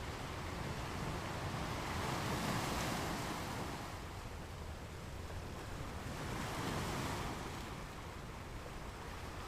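Ocean waves breaking and washing on a shore: a steady rush of surf that swells twice, about two and a half and six and a half seconds in, each time rising and then fading back.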